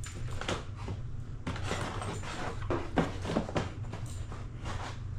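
Paper booklets and packaging being handled: irregular rustling and light knocks, over a steady low hum.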